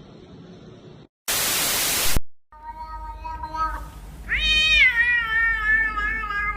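A sudden, loud burst of hiss lasting under a second, then a cat meowing. The meow is one long, drawn-out call that rises in pitch about halfway through and then holds.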